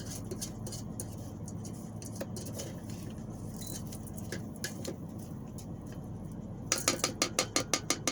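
A utensil clattering against the stainless-steel inner pot of an Instant Pot, with a quick run of knocks, about seven a second, near the end, over a steady low hum.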